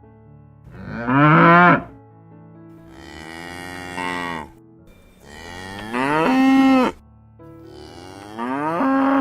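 Cattle mooing: four long, loud moos one after another, each with a pitch that bends up and falls away.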